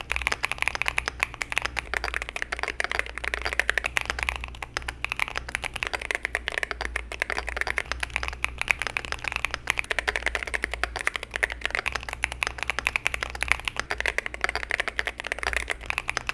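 Continuous fast typing on a computer keyboard: a dense, unbroken stream of key clicks and clacks.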